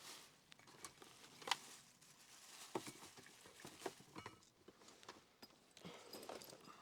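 Faint, scattered small clicks and taps, with a sharper click about a second and a half in: hands handling a small electrical connector and a fine probe.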